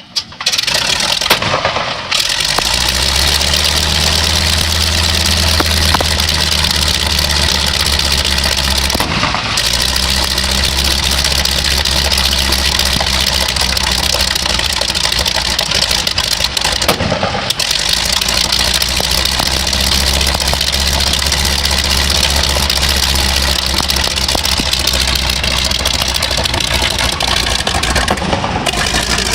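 Pratt & Whitney R-1340 nine-cylinder radial engine of an Air Tractor AT-401B firing up: it catches suddenly, runs unevenly for about two seconds, then settles into a loud, steady idle with a deep rumble. It is the first start just after an overhaul.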